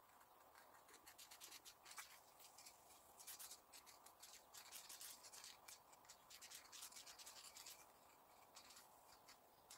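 Near silence with faint, scattered scratching and rubbing sounds.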